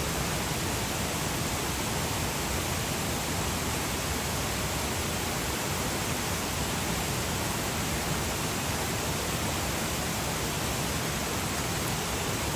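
Steady, even rushing of a mountain stream, with no breaks or distinct events.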